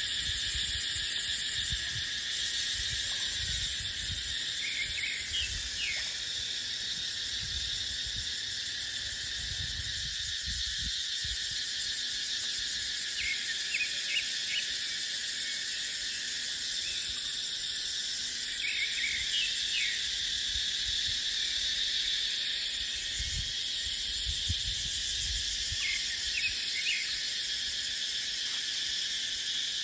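Cicadas droning in a steady, high chorus, with wind gusting into a low rumble at times and brief chirps a few times.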